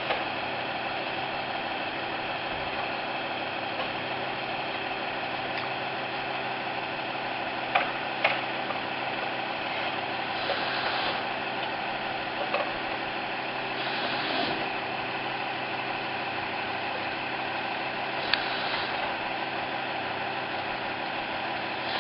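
An engine idling steadily, with a few short clicks and three brief hisses about ten, fourteen and eighteen seconds in.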